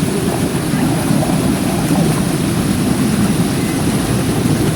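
Waterfall water rushing, a steady, deep noise.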